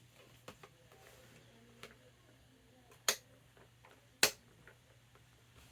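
Two sharp clicks a little over a second apart, among a few fainter ticks, over a faint steady low hum.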